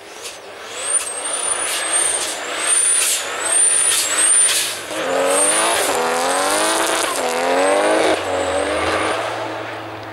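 Volvo sedan race car's engine revving hard as it slides past on the ice, the revs climbing and dropping again and again with sharp cracks. It is loudest as the car passes close by, then fades as it drives away.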